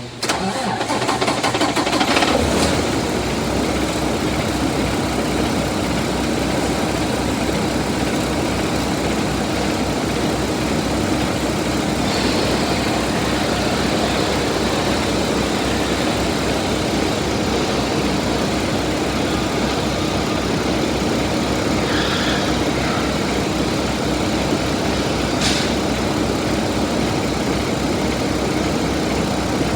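Paccar MX13 inline-six diesel engine starting, briefly running up, then settling into a steady idle with an even low pulse.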